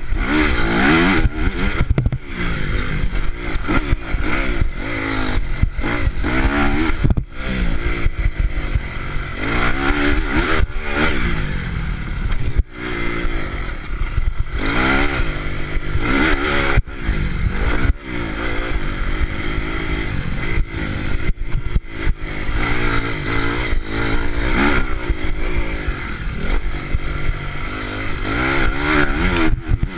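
Honda CRF motocross bike engine revving up and falling off over and over as the rider works the throttle and shifts, its pitch climbing in repeated surges with short drops in between.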